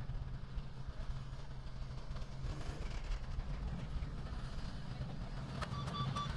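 Diesel engine of heavy earthmoving machinery running with a steady low rumble. Near the end a few clicks come, then a high-pitched pulsing beep starts.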